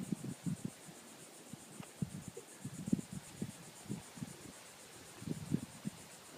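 A boat's side squeaking and creaking against the dock in irregular short strokes. The wind is pressing the loosely tied boat against the dock with no bumpers between them. Insects trill steadily behind it.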